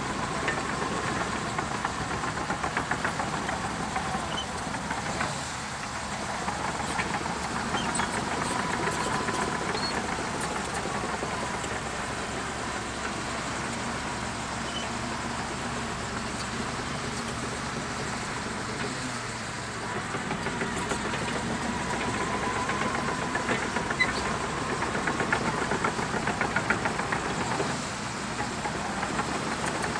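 Shantui DH17C2 crawler bulldozer's diesel engine running steadily as the machine works, with a faint whine that comes and goes.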